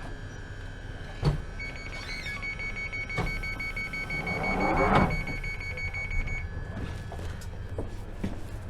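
Door-closing warning on a London Underground 1995 Stock Northern line train: a rapid, high beeping for about five seconds, with a thud about five seconds in.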